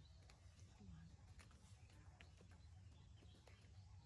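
Near silence: a faint steady low hum with scattered small clicks and ticks.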